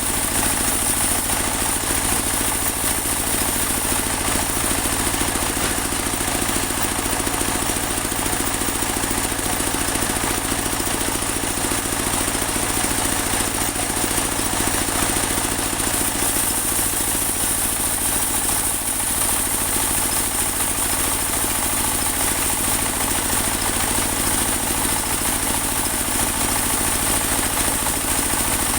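Engine of a portable band sawmill running steadily, with a steady high hiss above it and no pauses.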